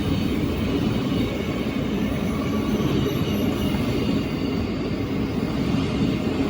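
ÖBB class 1144 electric locomotive under way with a regional express train: a steady, loud rumble of the train with a faint high whine over it.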